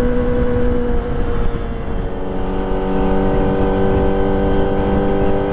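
Kawasaki ZX-25R's inline-four engine running through a Prospeed Shark high-mount exhaust at steady revs while riding. The pitch dips slightly about a second in, then holds steady, over a low rumble of wind and road.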